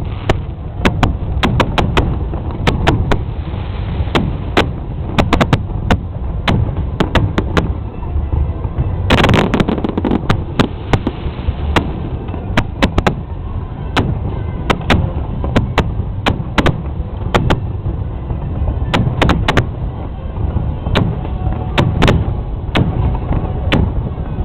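Fireworks bursting in a rapid, irregular string of sharp bangs over a steady low rumble, with a dense cluster of bursts about nine seconds in.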